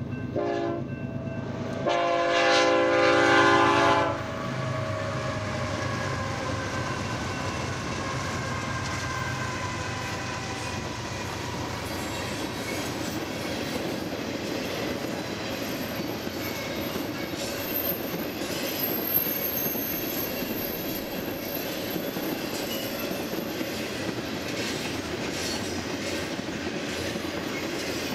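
BNSF freight train led by locomotive 6806 passing: a short horn blast, then a long loud horn blast a couple of seconds in. After that the engine note falls in pitch as the locomotives go by. The cars then roll past with a steady rumble and clickety-clack, and a faint high wheel squeal partway through.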